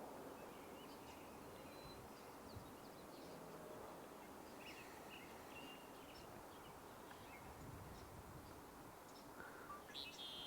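Faint short chirps and check notes of red-winged blackbirds calling in a marsh, scattered over a low steady outdoor hiss.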